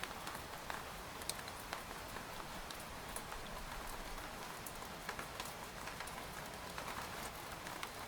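Steady rain pattering on a tent's fabric, a continuous hiss with many scattered individual drop ticks.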